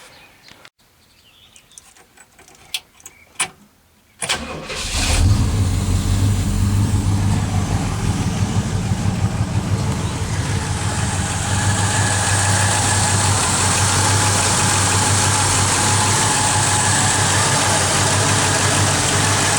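Pontiac 389 V8 in a 1966 Catalina, cold-started after six years of sitting: after a few clicks it catches about four seconds in and then runs steadily. The engine is cutting up and misfiring a little, which the owner puts down to burnt points.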